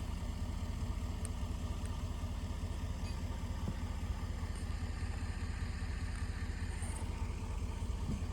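Skid loader engine idling steadily.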